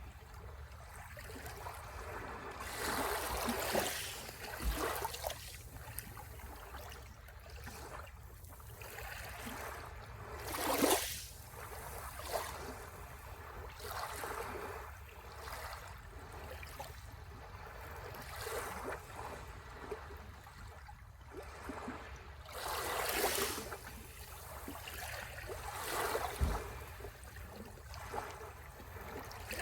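Sea waves breaking and washing up the shore, swelling and fading every few seconds, with a few louder breaks standing out.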